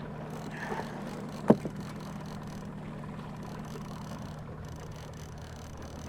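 Boat motor running with a steady low hum. A single sharp knock about a second and a half in.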